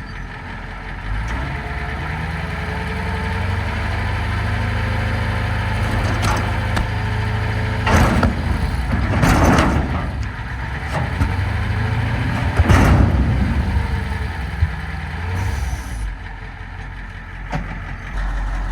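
Diesel truck engine running steadily, with three sharp knocks or clanks in the middle.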